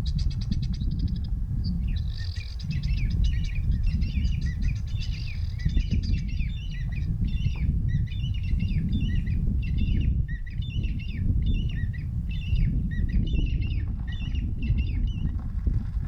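A bird calls over and over in short chirping phrases, roughly one and a half a second, over a steady low rumble. A fast rattling trill comes just before the calls begin.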